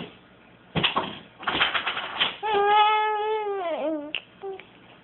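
A young child making vocal noises: a few raspy, breathy bursts, then a held, high "aah" that drops in pitch as it ends.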